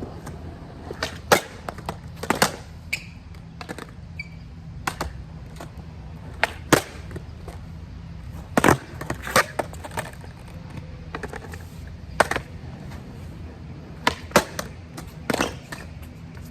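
Skateboard on new Independent trucks being ridden: a steady low rumble from the wheels rolling, broken by about ten sharp, irregular clacks of the board popping and landing.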